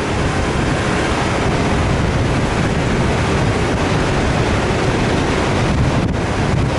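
Off-road 4x4 driving through desert sand: a loud, steady rush of engine, tyre and wind noise.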